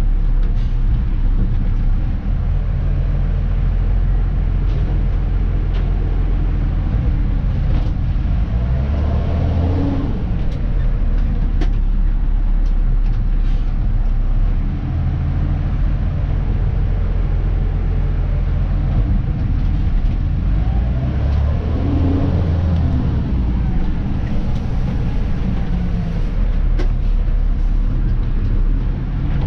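A Dennis Elite 2 garbage truck's diesel engine is heard running steadily as the truck drives, with the engine note shifting about a third of the way in and again about three quarters through. A few short clicks and rattles sound over it.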